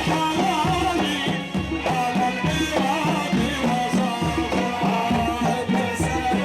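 Gulf Arabic folk music from a troupe: hand drums beat a steady rhythm under a wavering melody.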